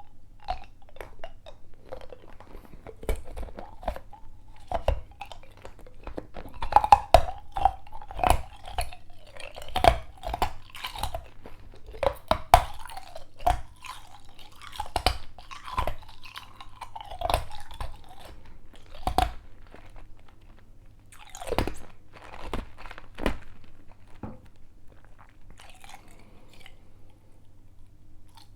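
Ice being crunched and chewed close to the microphone: a run of sharp, irregular crunches in clusters, with short pauses between bites.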